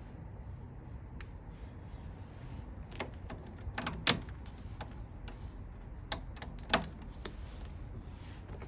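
A handful of sharp knocks and clicks over a low steady rumble, the loudest about four seconds in and another near seven seconds.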